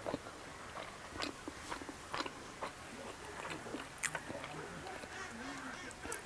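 Close-miked eating sounds: chewing and wet lip smacks with scattered sharp mouth clicks while rice, omelette and greens are eaten by hand.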